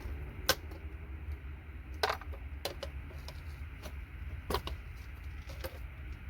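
Small pieces of gold-plated electronic scrap clicking and clattering against one another as they are sorted and dropped, about five sharp knocks at uneven intervals, over a steady low hum.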